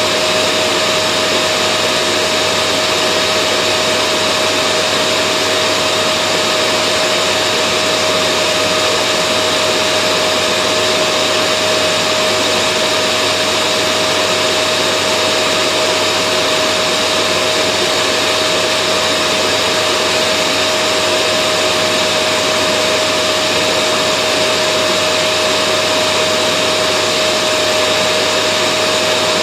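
Vacuum cleaner motor running steadily, a constant whooshing drone with a high hum that neither rises nor falls.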